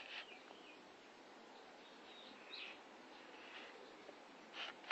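Faint, scattered bird chirps over a quiet background hiss, with a few short calls near the end.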